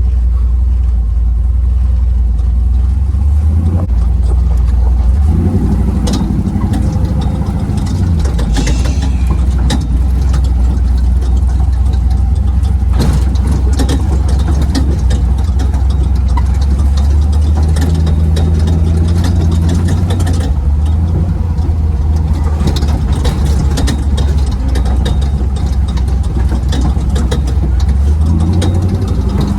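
Race truck's engine running under way off-road, heard from inside the truck; the engine note shifts up and down several times. Frequent short rattles and knocks come over it.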